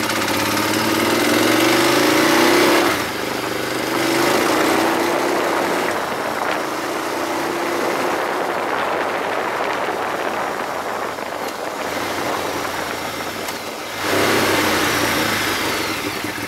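Ducati 848 motorcycle's L-twin engine under hard acceleration on a race track. The revs climb for about three seconds, then drop abruptly, as at a gear change or lift-off, and climb again. The engine runs steadier through the middle and jumps back to full throttle near the end.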